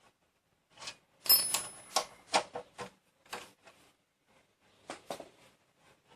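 Metal hand tools clinking and knocking against the motorcycle's brake caliper bolts, a handful of irregular sharp knocks. The loudest comes a little over a second in and rings briefly. A few more follow about five seconds in.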